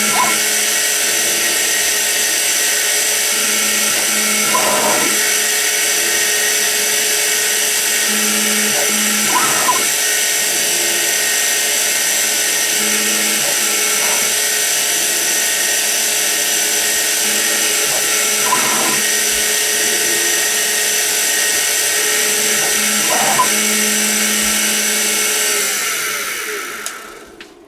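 Sieg X2 mini-mill's spindle running with a steady high whine while the CNC drills a row of holes in aluminum plate, a brief change in the sound about every four and a half seconds as each hole is done. The spindle winds down and stops about a second before the end.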